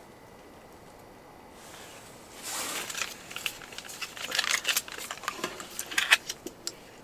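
Handling noise: rustling, crinkling and sharp irregular clicks, starting with a swish about two and a half seconds in and stopping shortly before the end.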